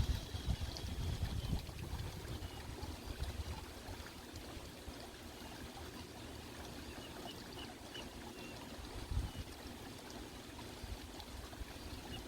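Water trickling and flowing steadily, with low rumbling gusts in the first two seconds and a few faint high chirps partway through.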